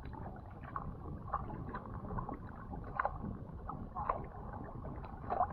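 Water splashing around sea kayaks on the move: irregular small splashes and drips over a low, steady wash of water.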